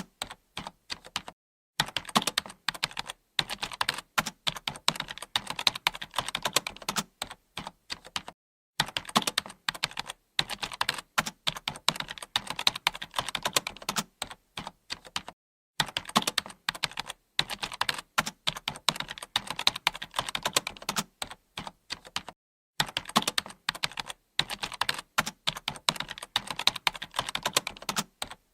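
Computer keyboard being typed on: a rapid, continuous patter of keystrokes, broken by brief pauses about every seven seconds.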